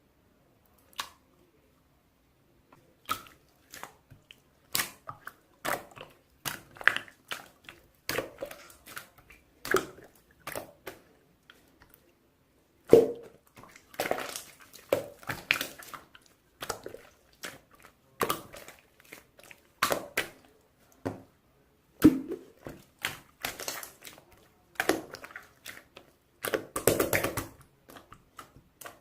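An irregular run of short crunching clicks, one to three a second, with a few louder clustered crunches.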